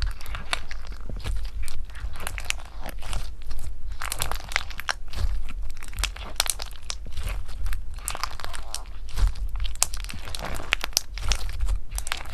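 Slime being worked, with a dense, irregular run of crisp crackles and crunches.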